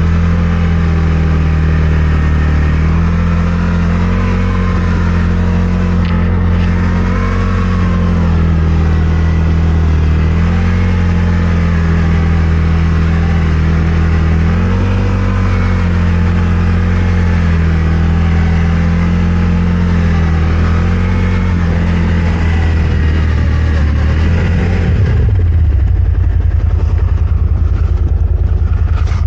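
CFMOTO Gen 3 1000's V-twin engine running under load, its revs rising and falling as it drives. About 25 seconds in the revs drop and it settles to an idle.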